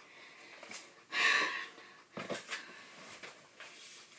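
A person's breath: one loud exhale about a second in, followed by a few short, softer breathy sounds.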